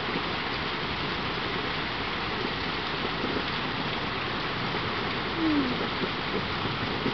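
Heavy rain pouring down steadily. About five and a half seconds in, a short falling tone sounds briefly over it.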